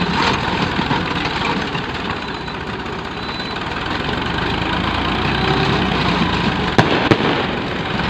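Tractor engine running steadily, driving a PTO post hole digger, with two sharp knocks about a third of a second apart near the end.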